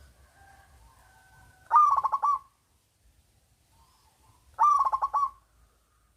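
Zebra dove (perkutut) singing: two loud phrases of quick, rapidly repeated cooing notes about three seconds apart, with fainter, softer notes before the first phrase.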